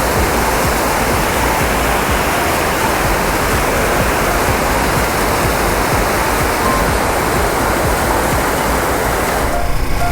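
Steady, heavy wind noise rushing over the camera microphone of a moving motorcycle. It drops away suddenly near the end.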